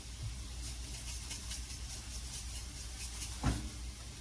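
Vegetables frying in bacon grease in a skillet, with faint crackling over a steady low hum. A brief low sound comes near the end.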